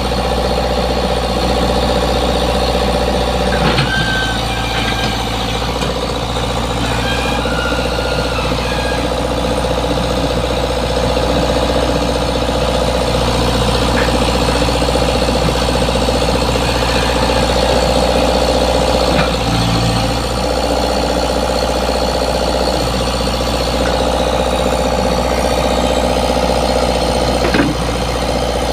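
Komatsu PC75 excavator's diesel engine running steadily, with a few brief knocks.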